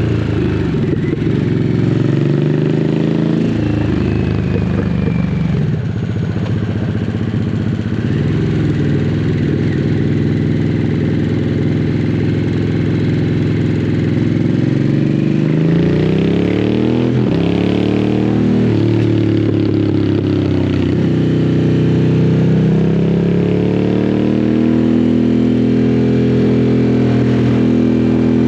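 Harley-Davidson Sportster S's V-twin engine through a custom slip-on exhaust, ridden at low rpm, with the engine pitch rising and falling as the throttle is worked. In the second half it rises and drops quickly several times in a row.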